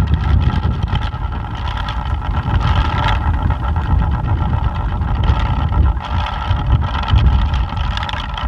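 Plastic pinwheel spinning fast in strong wind, a steady whirring flutter, over gusty wind buffeting the microphone in low rumbling surges.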